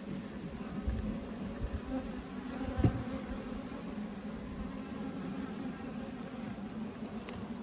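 Honeybees buzzing in a steady hum over an open hive. A short knock about three seconds in, with a few softer ones around it.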